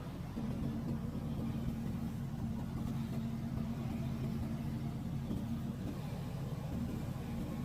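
A steady low engine hum that comes in about half a second in and holds without change.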